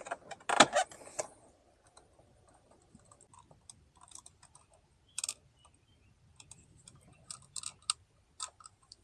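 Scattered small plastic clicks and taps as the old door courtesy light is worked out of its housing and unclipped from its wiring plug, irregular and spaced out, with a few sharper snaps.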